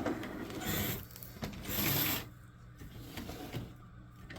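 Old Tyco HO-scale model locomotive's motor and gears whirring in two short spurts in the first two seconds, then fading to a faint sound: the engine is struggling to run on the track, which the owner puts down to it needing a clean.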